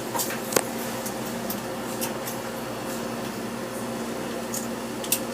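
Furnace fan motor running with a steady hum, broken by a few short sharp clicks about half a second in and near the end.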